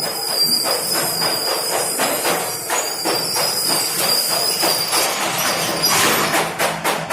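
Rapid irregular metallic knocks and clanks, about three a second and crowding together near the end, over a steady high-pitched tone that stops about five seconds in.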